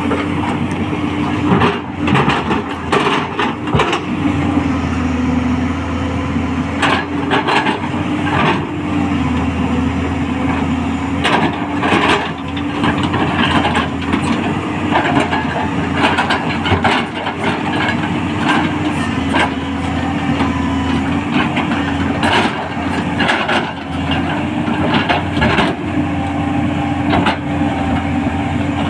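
210LC crawler excavator running under work, its engine and hydraulics giving a steady hum that dips and rises slightly in pitch with the load, with repeated knocks and clatters throughout.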